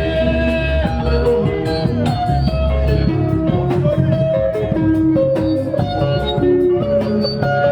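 Live band music: an electric guitar picks a melodic lead line over a bass line and a steady drum beat.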